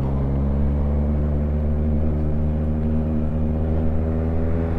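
Motorcycle engine running at a steady speed, its note holding even without revving up or down.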